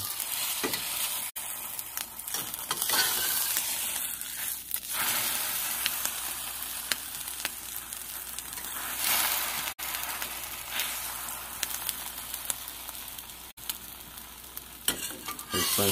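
Food frying in a hot pan: a steady sizzle with scattered crackles, swelling louder a few times.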